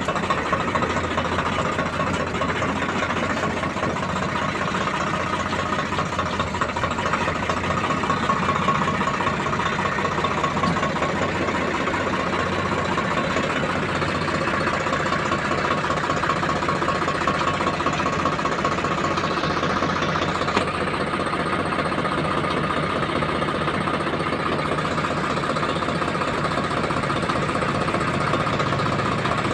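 Tractor's diesel engine running steadily, with a fast, even firing beat.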